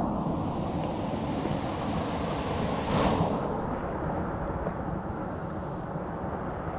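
Steady rushing of flowing water, swelling briefly about three seconds in.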